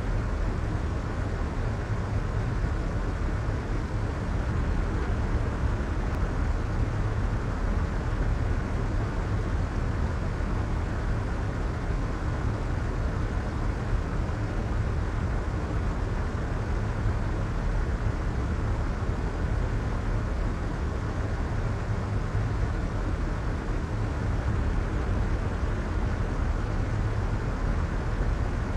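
Soft white noise: a steady, unbroken hiss that does not change, deep and muffled, with most of its weight in the low rumble and little high hiss.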